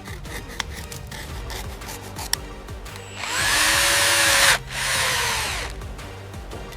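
A power tool runs in two short spells: it spins up and runs loudly for about a second and a half, cuts off abruptly, then runs again for about a second and winds down.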